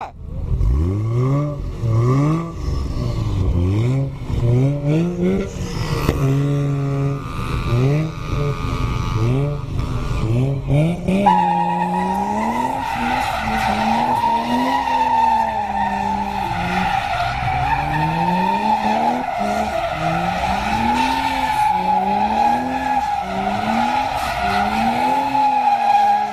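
1JZ-GTE twin-turbo straight-six in a drifting car, revving up and down again and again. About eleven seconds in, a steady tyre squeal starts and carries on under the rising and falling engine.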